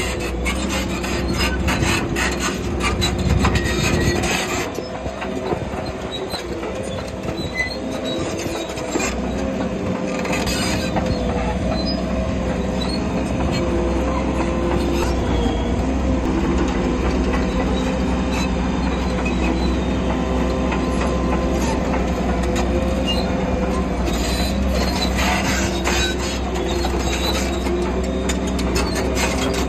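Bulldozer's diesel engine running steadily under load, with metallic track clatter and scraping at times, most around the start, about ten seconds in, and again near the end.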